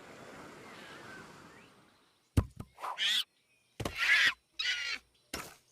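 Cartoon soundtrack effects: a faint hiss of ambience, then a sharp click about halfway through and four short pitched calls or chirps.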